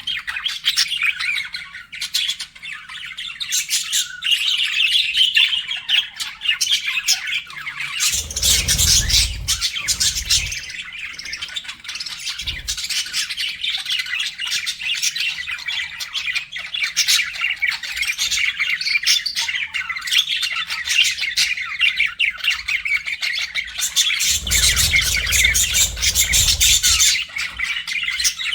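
A flock of budgerigars chattering, warbling and squawking without a break, many voices overlapping. Twice, about a third of the way in and again near the end, the chatter grows louder for a couple of seconds with a low rumble beneath it.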